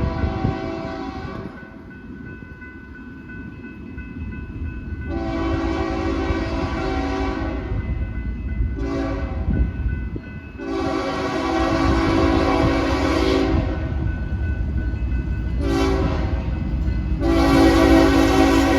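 Freight locomotive air horn sounding a series of long and short blasts, each a chord of several tones, over the steady low rumble of the approaching train.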